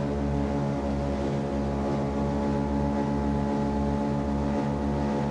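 Four Wright R-1820 Cyclone radial engines of a B-17 Flying Fortress droning steadily, heard from inside the fuselage, with a regular pulsing beat about twice a second as the engines run slightly out of step.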